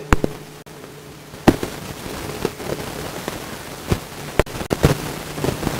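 A string of sharp, irregular cracks and pops, about a dozen over several seconds, some louder than others, over a faint low steady hum.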